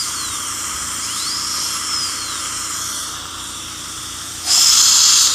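Dental high-speed handpiece (dentist's drill) whining, its pitch sliding down and back up. About four and a half seconds in, a loud spray hiss starts and runs on past the end.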